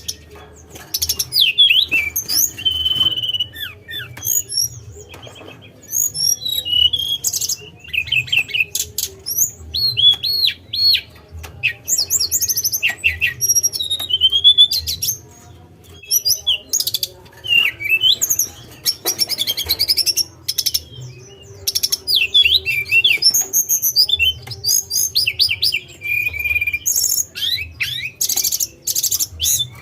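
A tledekan songbird singing a fast, varied song of high chirps, slurred whistles and short trills, coming in bursts with brief pauses between them.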